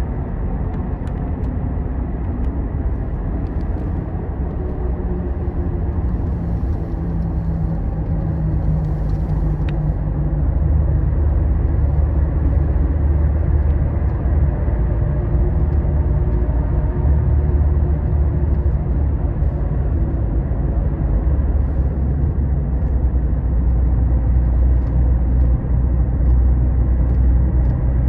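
Scania Astromega double-decker coach cruising on an expressway: a steady low rumble of engine and road noise, growing somewhat louder about ten seconds in.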